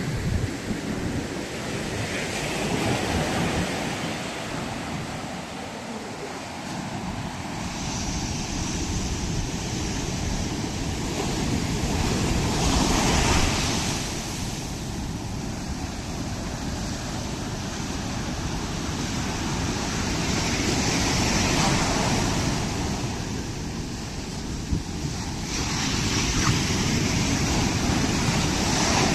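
Ocean surf washing up the beach, a steady rush that swells and eases with each wave, with some wind buffeting the microphone.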